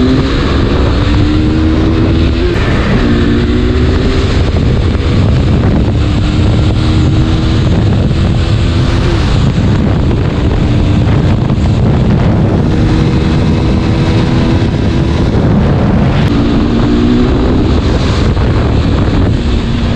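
KTM RC 390's single-cylinder engine running under way, its note rising and falling as it accelerates and shifts, with heavy wind noise on the microphone.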